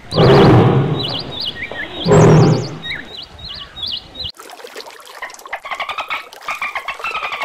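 Two loud, rough growls from a big cat, about two seconds apart, over high trilled bird chirps. After a cut about four seconds in, a run of pulsed, wavering calls follows, which fit the orca now shown.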